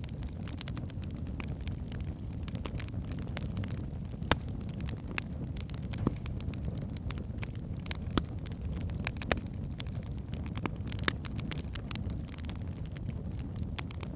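Wood fire in a fireplace: burning logs crackling with a steady low rumble of flame, scattered sharp snaps and a few louder pops.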